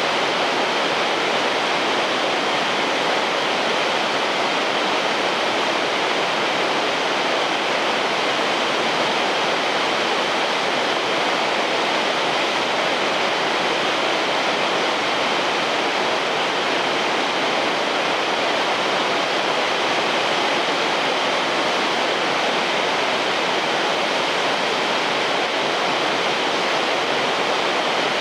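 Shirahige Falls, a waterfall that stays unfrozen in midwinter, pouring in a steady, unbroken rush of water.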